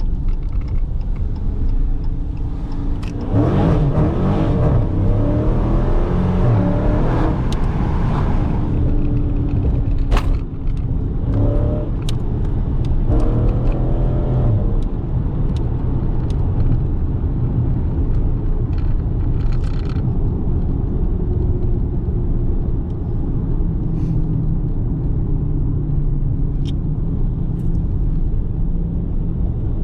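Dodge Challenger T/A 392's 6.4-litre HEMI V8 running on the road. It revs up under acceleration a few seconds in and again briefly around twelve seconds, and otherwise runs at a steady cruise.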